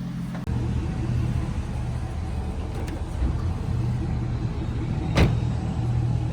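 Car engine and vehicle noise running with a steady low drone that gets louder about half a second in, with a single sharp knock about five seconds in.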